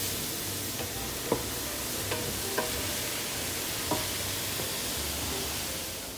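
Ground beef and diced onions sizzling as they brown in a stainless steel pot, stirred with a wooden spoon that scrapes and knocks against the pot four times.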